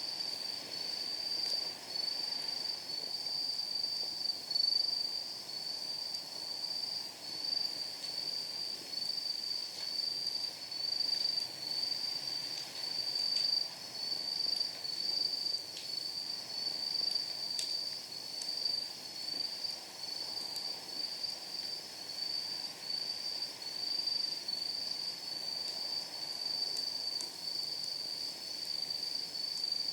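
Night insects trilling steadily, a high-pitched pulsing chorus. A few faint crackles from the burning firewood come through now and then.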